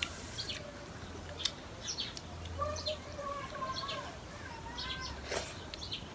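Birds chirping and calling: many short high chirps, with a few longer wavering calls near the middle.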